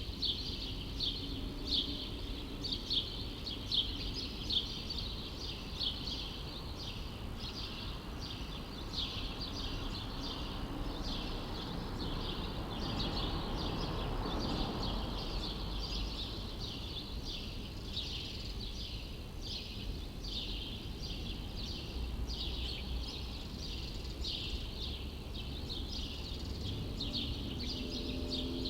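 Small birds chirping rapidly and continuously, several high chirps a second, over a low steady city rumble. A broad whoosh of noise swells and fades about halfway through.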